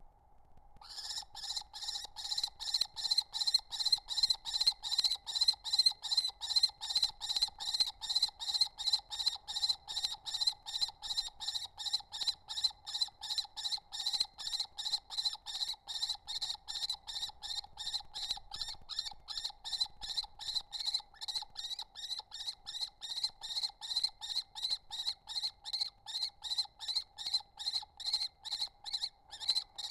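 Kestrel calling: a long, rapid series of high, repeated notes, about three to four a second, starting about a second in and keeping on steadily.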